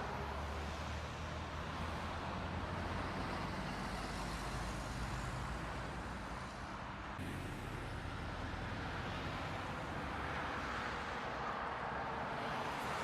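Steady vehicle engine and road noise as picked up by a dashcam, with a low hum underneath; it changes abruptly about seven seconds in, where one clip cuts to the next.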